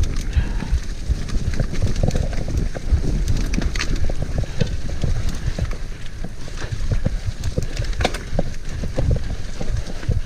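Mountain bike rattling and thudding over rough, muddy trail, with tyre noise and wind buffeting the microphone; irregular knocks come close together all the way through.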